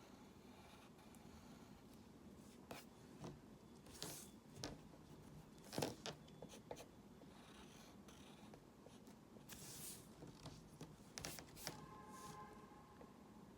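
Faint, irregular scratching strokes of drawing, with a few light taps between them. A faint short tone sounds near the end.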